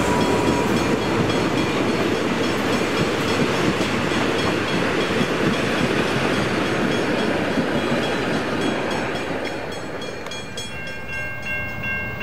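Rumble of heritage passenger carriages rolling past close by on the track, with faint regular wheel clicks over the rail joints, fading as the train draws away. Near the end a diesel locomotive's horn begins faintly.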